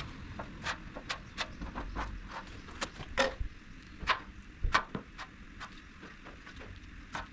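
Body-filler spreader clicking and tapping as filler is worked onto a car's front wing: light, irregular clicks a few times a second, with a few louder knocks about three to five seconds in.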